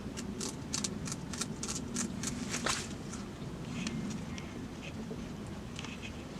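A quick run of faint clicks or taps, several a second for the first three seconds or so, then scattered lighter ticks over a low steady rumble.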